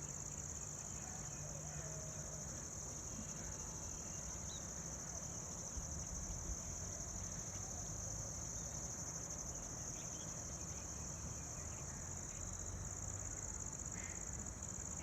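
Crickets chirping in a steady chorus, heard as one continuous high-pitched trill over a low background rumble.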